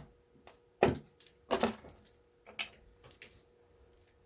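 Small salvaged electronic parts and pieces being handled and dropped while stripping e-waste: about five separate hard clicks and clacks, the loudest about a second in and about a second and a half in.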